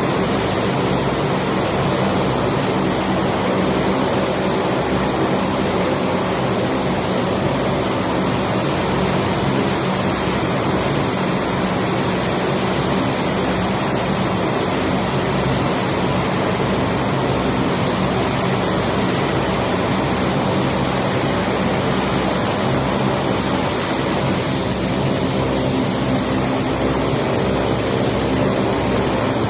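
Aircraft engines running steadily at an even level, with a constant hum and a regular low throb.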